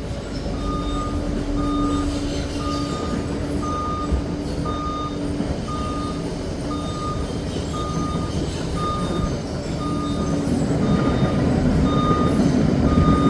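Crawler dozer's reversing alarm beeping steadily, about one and a half beeps a second, over its diesel engine running under load; the engine grows louder near the end. The alarm sounds as the Liebherr PR 746 backs up.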